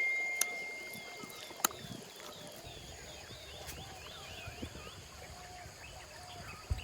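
Birds calling: one repeats a short call about twice a second, while others twitter higher up. Over the first two seconds a clear ringing tone fades out, and a few sharp clicks come through.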